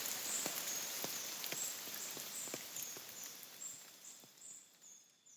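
Background soundtrack fading out: a soft hiss with faint ticks about twice a second and short, repeated high chirps, dying away to near silence by the end.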